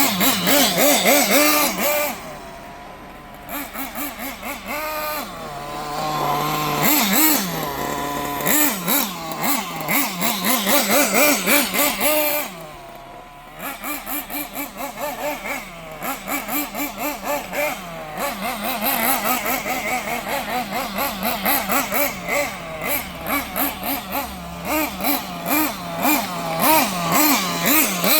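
Small nitro engine of a Kyosho RC engine buggy running hard, its pitch sweeping up and down again and again with quick throttle blips. It drops back to a lower, quieter running note about two seconds in and again near the middle.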